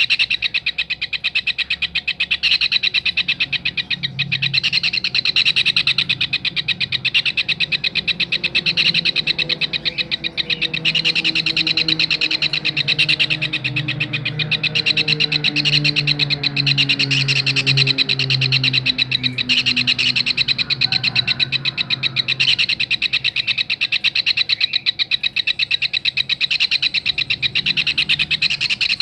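Kingfisher calling in a long, continuous, very fast trill of rapidly repeated high notes, with a low hum underneath.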